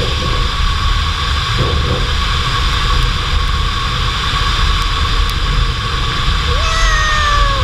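Steady drone of a Cessna 152's four-cylinder engine and propeller heard inside the cockpit, with a constant hum. Near the end a short whistling tone comes in, gliding slowly down in pitch.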